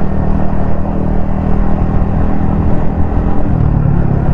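Yamaha XSR155's single-cylinder engine running at a steady cruise, with road rumble, heard from the rider's helmet; the engine note drops slightly about three and a half seconds in as the revs ease.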